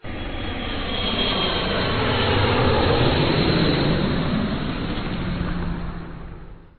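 Jet airliner's engine noise passing by, swelling to a peak about three seconds in, then dying away and cutting off near the end.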